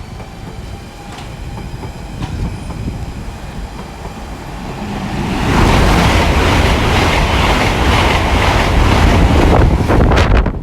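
Hitachi IET express train (Class 800 family) running through the station at speed without stopping. Its wheel and rail noise builds from about four seconds in and stays loud for the last five seconds.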